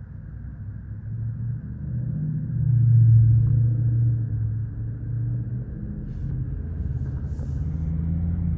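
Heavy diesel machinery engine running with a low rumble that grows louder to a peak about three seconds in, then holds steady.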